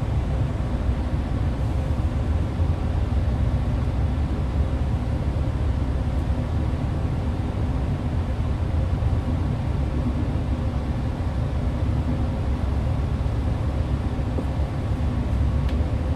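Hyundai New Super Aero City city bus engine running steadily, heard from inside the bus: a deep, even rumble with a faint steady whine above it.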